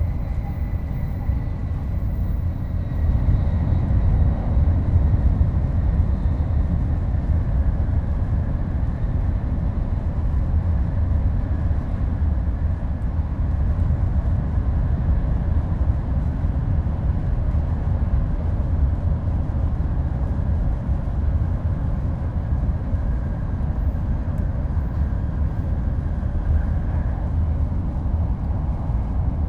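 Inside a Shinkansen passenger car running steadily: a continuous low rumble of the train's running gear and track, even throughout, with a faint thin whine in the first few seconds.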